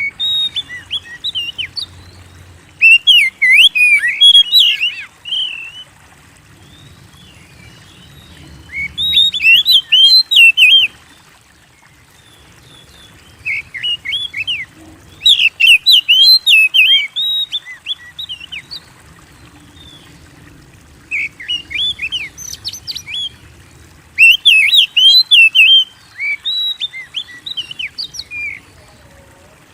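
Oriental magpie-robin (kacer) singing: loud bursts of rapid, varied whistles and chirps, each phrase a second to a few seconds long, with short pauses between phrases.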